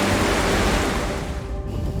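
Steady rush of a waterfall with background music, the rush fading away about a second and a half in and leaving a low rumble.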